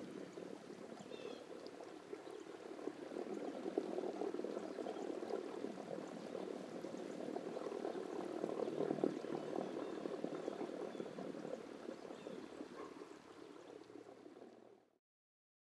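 River water running and gurgling over rocks, a steady churning murmur that fades out near the end.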